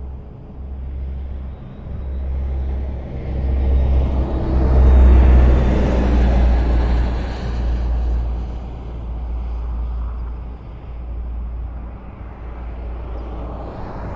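Highway traffic: a steady low rumble of engines and tyre noise on the road. One vehicle passes close, swelling to the loudest point about five to six seconds in and then fading.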